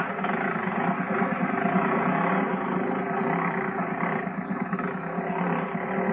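Enduro dirt bike engine running steadily under load, a rough, pulsing drone.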